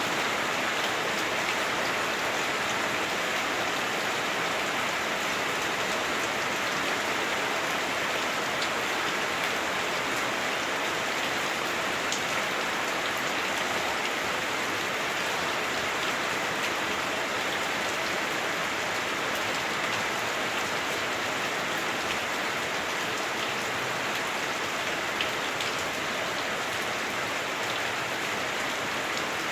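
Heavy rain drumming steadily on a house roof, heard from indoors, with scattered individual drop ticks in the steady hiss.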